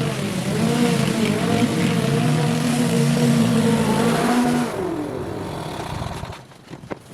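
Small petrol engine of a garden power tool running, with its pitch dipping briefly twice. About five seconds in it is cut off and winds down to a stop, followed by faint knocks and rustling.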